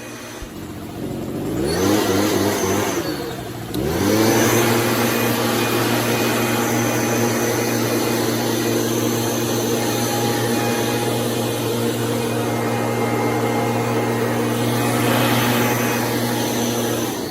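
Small motor of a sprayer applying foliar feed, spun up with a rising whine, stopped briefly and started again about four seconds in, then running at a steady pitch.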